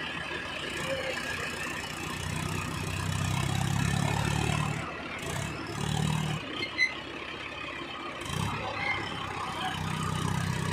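Tractor diesel engine working under a heavy load, its note swelling and easing several times as it pulls.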